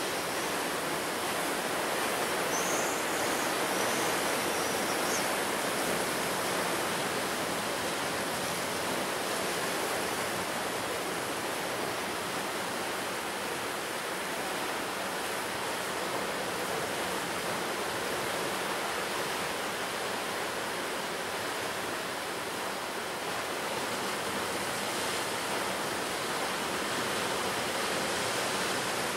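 Sea surf breaking and washing on a beach: a steady rush of waves with slow small swells in loudness.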